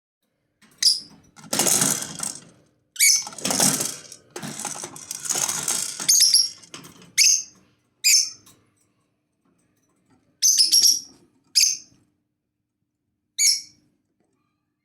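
Lovebirds calling in sharp, high chirps spaced a second or so apart. Harsher, scratchy bursts are mixed in during the first six seconds.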